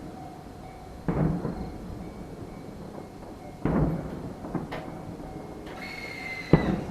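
Three booms from aerial fireworks shells bursting, about two and a half seconds apart, each with a rumbling tail that fades over a second.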